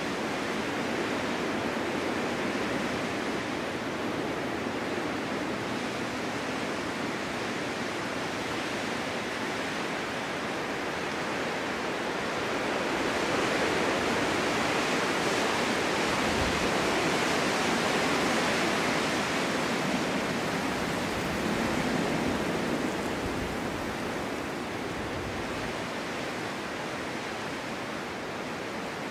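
Snowstorm wind blowing as a steady rushing hiss, swelling stronger about halfway through and easing off again toward the end.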